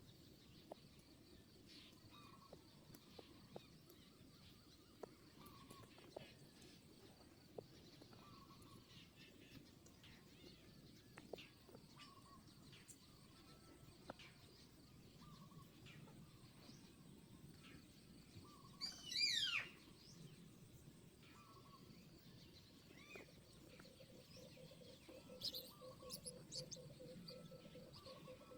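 Faint bird calls outdoors: soft short chirps repeating about every second and a half, one louder call falling quickly in pitch about two-thirds of the way through, and a few more calls near the end, over a steady high insect drone.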